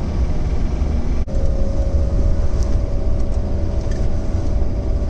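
Steady low rumble of a 1970 Lancia Flavia 1.8 single-carburettor flat-four engine running, heard from inside the car's cabin, with a brief break in the sound about a second in.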